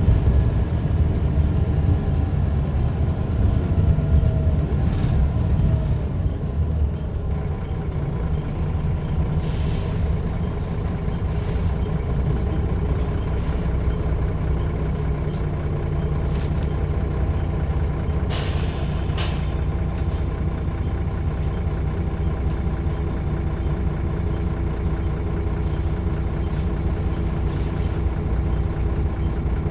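Scania L94UB single-deck bus's diesel engine running steadily, easing off for a moment about seven seconds in. A short hiss of air comes about ten seconds in, and a louder one lasting about a second comes near the middle: air released from the air brakes.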